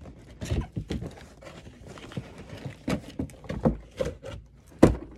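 A cardboard toy box being handled and opened: irregular taps, knocks and rustles, with one sharp loud knock near the end.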